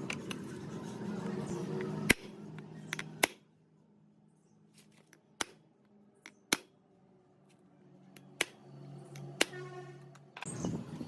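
A series of sharp clicks or clinks, about six, spaced irregularly, over a faint low steady tone.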